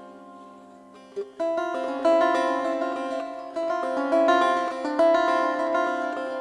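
Plucked long-necked lute music, the tambur, in a live Kurdish folk arrangement. A chord dies away into about a second of near-quiet, then plucked notes come back in as a quick, flowing melody.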